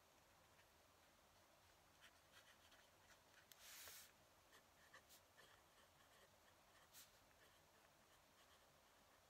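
Faint scratching of a fountain pen nib on paper in short, irregular strokes, with one longer scratch near the middle.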